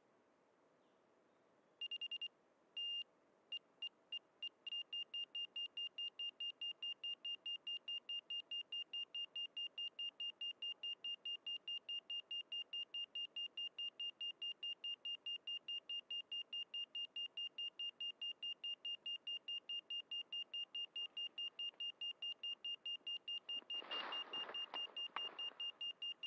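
FPV racing quad's lost-model buzzer beeping after a crash: a high-pitched beep that starts unevenly about two seconds in, then repeats steadily at about three beeps a second. Brief rustling near the end.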